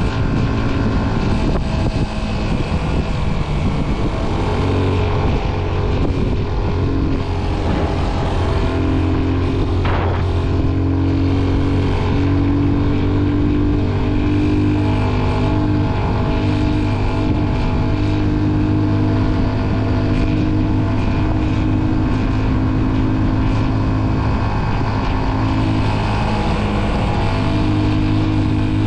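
Motorcycle engine running steadily while riding, its tone shifting in short steps as the throttle changes.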